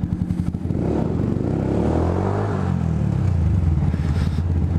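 Yamaha YZF R125's single-cylinder four-stroke engine running through a Scorpion aftermarket exhaust, loud and pulsing at low revs, revving up about a second in and dropping back about two seconds later. It is heard inside a multi-storey car park.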